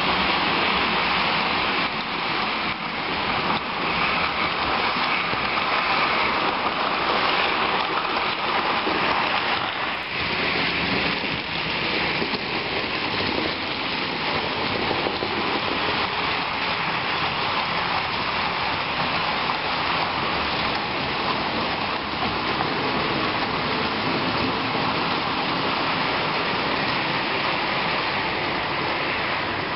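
Steady rushing, rattling noise of H0-scale model trains running on the track, with faint irregular ticks.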